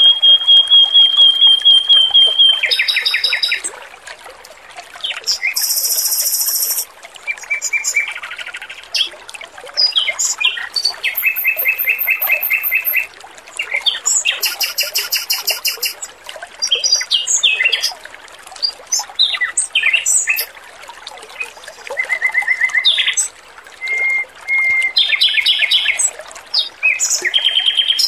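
Male Pekin robin (red-billed leiothrix) singing a string of varied phrases: a long held whistle at the start, then rapid repeated-note trills and very high buzzy trills, separated by short pauses. A soft trickle of water runs underneath.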